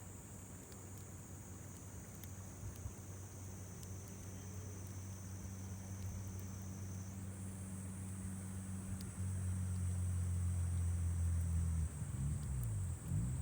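A steady, high-pitched trill of summer insects runs throughout and shifts up in pitch about halfway. Underneath it, a low engine drone grows steadily louder and starts to waver up and down near the end, as a passing vehicle, boat or aircraft does. A few faint clicks may be the campfire crackling.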